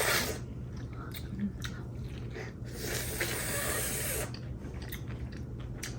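Eating sounds from handling and chewing boiled seafood: scattered small clicks and smacks, with two spells of rustling hiss, one at the start and one lasting about a second and a half near the middle.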